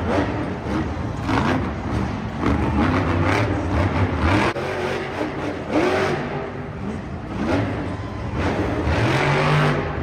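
Monster truck's supercharged V8 engine revving hard in repeated surges, the pitch swinging up and down with each blip of the throttle.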